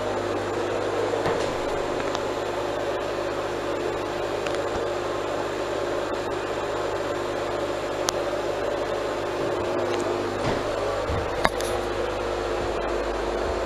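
Exhaust fan running steadily: an even rush of air with a constant hum, and a couple of faint ticks.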